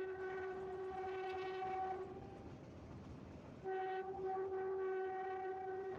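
Metre-gauge train's locomotive horn sounding two long blasts at one steady pitch, with a break of about a second and a half between them.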